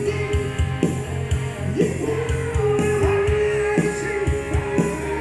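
Rock band music played back from a multitrack live recording: drums, bass, guitar and a singing voice, with reverb and delay on the mix.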